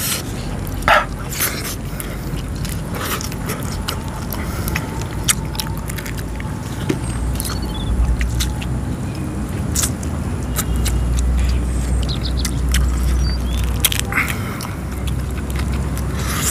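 Eating sounds: chewing with scattered short clicks, over a low steady rumble that grows louder about seven seconds in.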